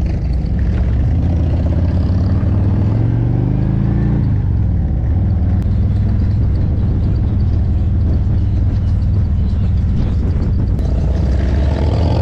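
Harley-Davidson Road King's V-twin engine running just after starting, its pitch rising and falling once with a blip of throttle about two to four seconds in, then running steadily.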